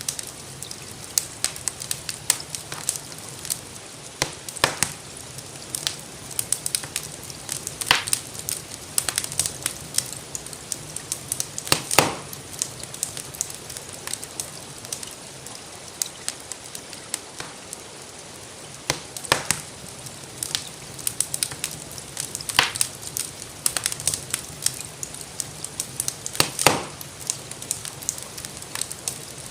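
Wood fire crackling in a fireplace, with constant small snaps and several louder pops spread through, over a steady hiss of rain.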